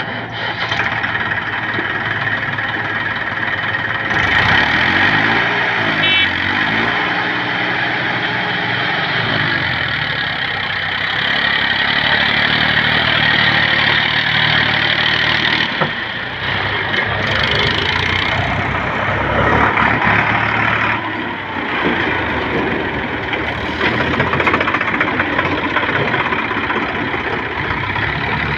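Tractor engine running under load, its revs rising and falling several times a few seconds in, then holding steadier.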